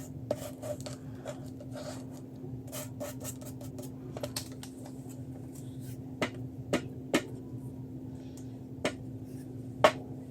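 Paper and craft supplies being handled on a work table: quick scratching and rubbing strokes with small clicks, then a few sharp taps spaced out, the loudest near the end.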